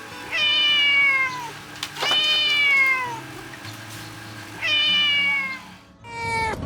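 Kitten meowing four times, each meow about a second long and falling in pitch, the last starting near the end.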